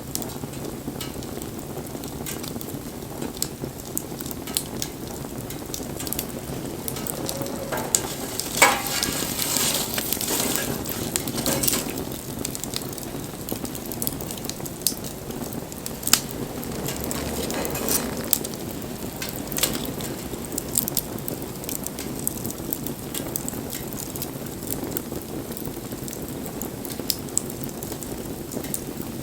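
Wood bonfire burning, crackling with frequent sharp pops over a steady hiss; about a third of the way in the hiss swells for a few seconds with a brief whistle.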